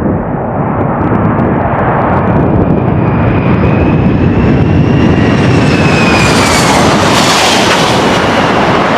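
A Boeing C-17 Globemaster III's four turbofan engines at high power as the jet passes. A loud rush builds over the first few seconds, and a high engine whine rises slightly, then falls in pitch as the aircraft goes by.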